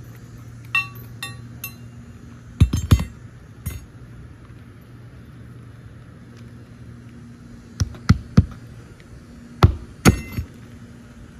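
Hammer driving a roofing nail into an asphalt shingle: three light ringing taps to start the nail, then hard blows in clusters, about three seconds in and again from about eight to ten seconds in. A steady low hum runs underneath.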